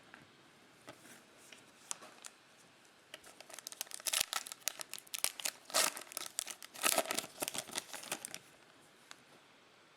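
Foil wrapper of a trading-card pack crinkling and tearing as it is opened. It is a rapid crackle that starts about three seconds in and stops after about eight seconds. A few light clicks come before it.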